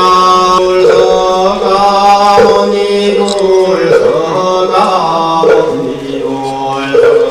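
Buddhist chanting: a voice sings long held notes that step slowly in pitch over an even knocking beat about every one and a half seconds, accompanying the bathing-the-Buddha ritual.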